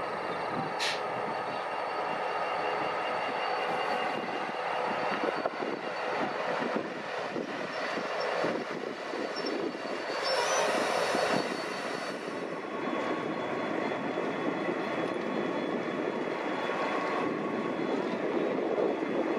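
Train running along the rails with steady rumbling noise and thin high squealing tones from the wheels. A brief sharp hiss comes about a second in.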